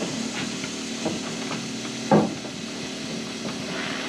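Timber-framing work: a loud single wooden knock about two seconds in and a few lighter knocks, over a steady machine hum.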